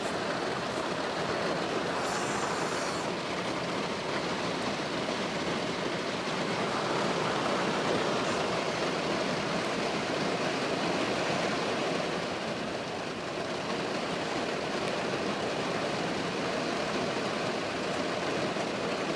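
Torrential downpour of heavy rain, a steady, dense hiss of falling water.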